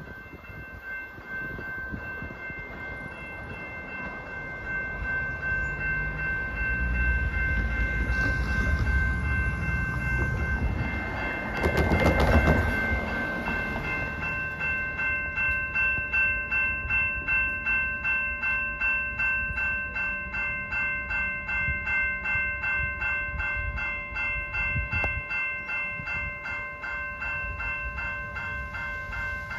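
A passenger train rumbling past, building to its loudest about twelve seconds in, over the steady ring of a railroad crossing bell. From about halfway, a grade-crossing warning bell rings in fast, even strikes as the crossing gates lower.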